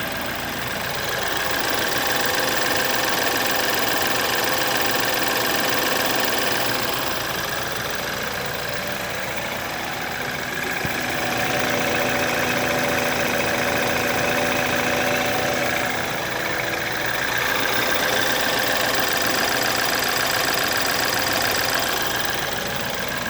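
BMW N20 2.0-litre turbocharged four-cylinder engine running with the noise of a worn timing chain that is due for replacement. The sound swells louder three times, for several seconds each.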